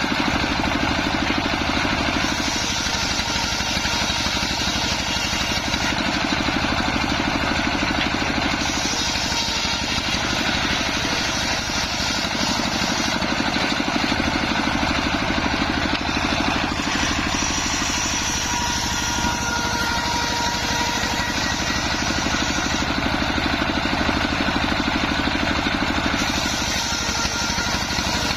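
Engine of a homemade circular sawmill running steadily, with a higher hiss that swells and fades every few seconds.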